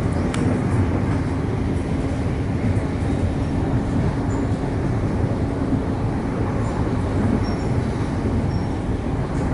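Melbourne electric suburban train running along the track, heard from inside a passenger carriage: a steady rumble of wheels on rails with a faint low hum.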